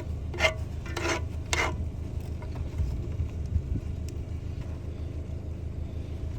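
A spatula clinking and scraping against a camp-stove pan of Sloppy Joes, three sharp clinks in the first two seconds and lighter scraping after. A steady low rumble runs underneath.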